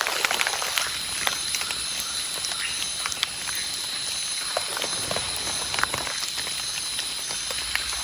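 Light rain at night: scattered drips and taps, over a steady high-pitched chorus of night insects with a faster pulsing insect call above it.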